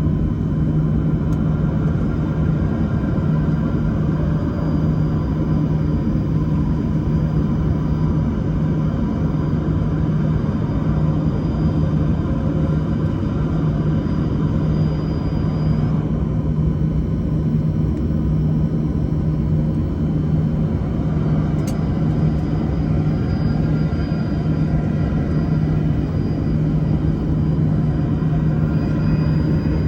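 Engine or heavy machinery running steadily, a constant low hum with a rumble under it and a faint high whine above.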